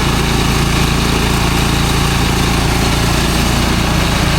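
Engine-driven rice threshing machine running steadily at a constant pitch, with an even rushing noise over the engine note.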